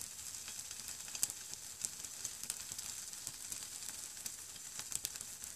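Bologna frying without butter on the carbon-crusted bottom of an upside-down pot over a hobo stove: a steady sizzle with scattered small pops.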